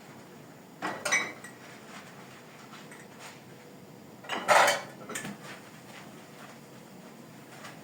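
Kitchenware clinking and clattering, pots, dishes and utensils knocked together: a couple of knocks about a second in and a louder cluster a little after four seconds.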